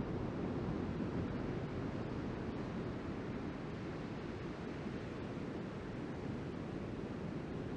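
Steady rush of ocean surf breaking, mixed with wind buffeting the microphone.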